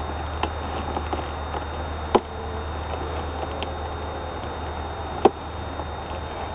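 Wooden beehive frames being pried loose and lifted out with a hive tool: a few light ticks and two sharp cracks, about two and five seconds in, over a steady low hum.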